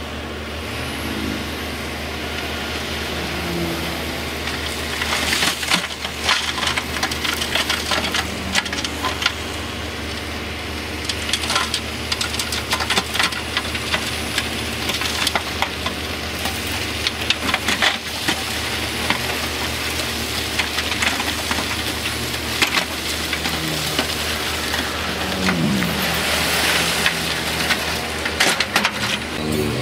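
Heavy diesel earthmoving machine running steadily while rock is pushed or loaded, with many sharp cracks and crunches of stones clattering together. The engine pitch swings up and down briefly near the end.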